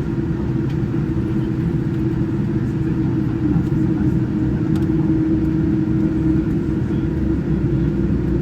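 Steady cabin noise inside a Boeing 787-9 airliner on the ground after landing: a continuous low rumble with a steady hum over it.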